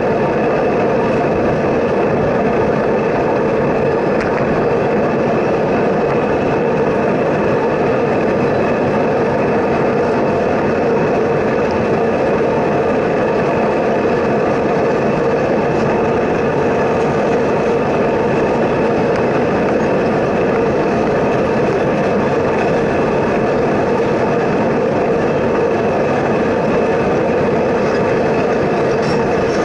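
Freight train of covered hopper cars rolling along the track close beside the road: a loud, steady, unbroken rumble of wheels on rail.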